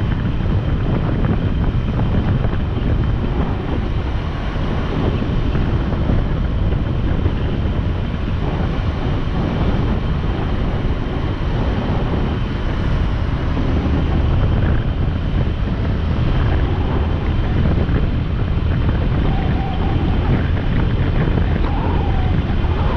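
Motorcycle riding at road speed: steady engine and road noise under heavy wind buffeting on the microphone.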